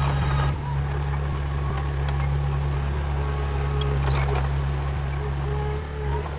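Heavy diesel engine of earthmoving equipment running steadily, a low even drone, with a faint higher whine held through the middle and a short clatter about four seconds in.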